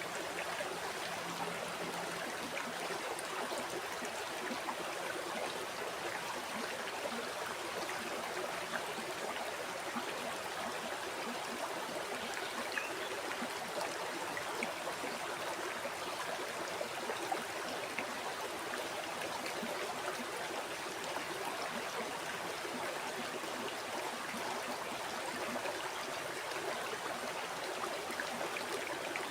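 A river or stream flowing steadily: a continuous rushing and trickling of water with fine bubbling detail.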